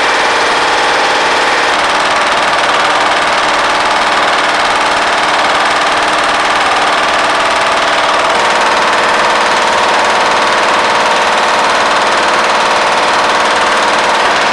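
LS V8 engine in a 1937 Lincoln Zephyr idling steadily through its newly built exhaust, loud and even, with a slight change in tone about two seconds in.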